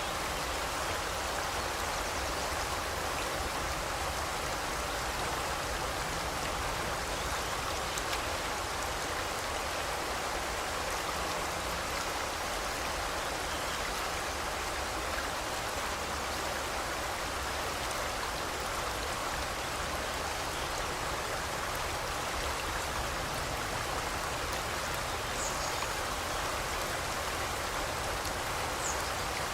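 Forest river flowing: a steady, unbroken rush of running water.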